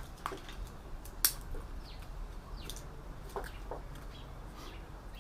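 Scattered light clicks from small computer parts being handled, with one sharper click about a second in. Short falling chirps of birds sound faintly in the background.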